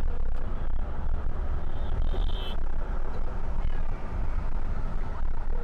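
Car driving on a highway, heard from inside the cabin: a steady low rumble of engine and tyre noise. A short high-pitched tone comes about two seconds in.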